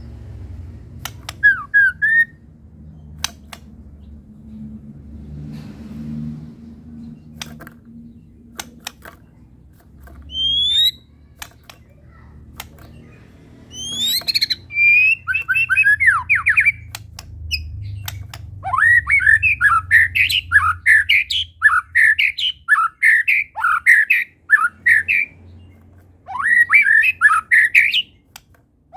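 White-rumped shama (murai batu) singing. Scattered sharp clicks and a couple of rising whistles come first, then, from about halfway, long fast runs of repeated chirping notes, with a short pause near the end.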